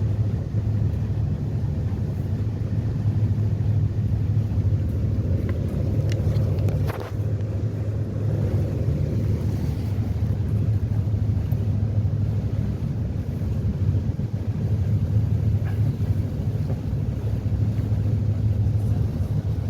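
Passenger catamaran ferry's engines heard from on board as a steady low drone, with a rushing noise over it and a brief knock about seven seconds in.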